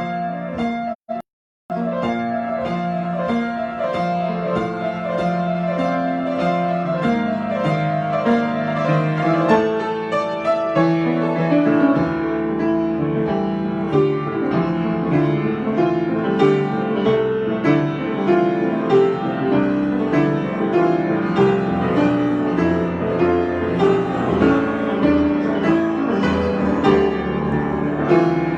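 Piano improvisation: a stream of struck notes with a moving low line under a higher melody, broken by a brief dropout a little over a second in.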